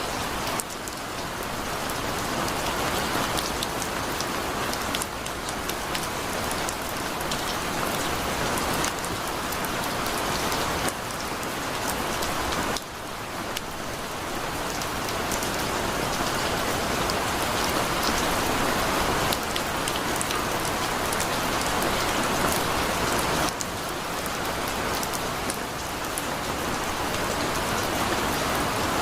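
Heavy rain falling steadily, a dense patter on a hard surface. The level dips suddenly twice, about 13 seconds in and again near 23 seconds, then builds back.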